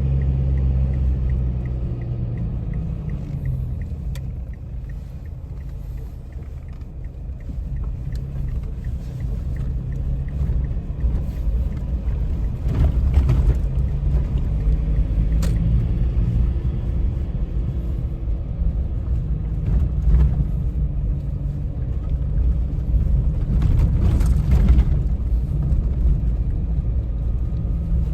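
Motor vehicle engine running with a steady low rumble, with a few brief knocks about halfway through and near the end.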